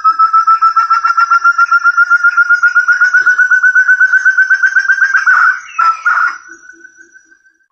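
Forest partridge (burung terung) call used as a bird lure: a long, fast run of repeated notes, about nine a second, that climbs slowly in pitch. Near the end come a few louder, broken notes, and the call dies away.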